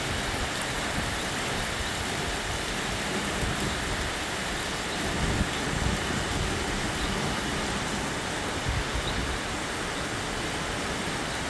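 Heavy rain pouring down in a sudden downpour, a steady hiss of rain.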